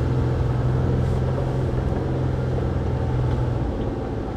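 Jeep Willys engine running under load as it crawls over trail rocks, a steady low drone that eases off about three and a half seconds in.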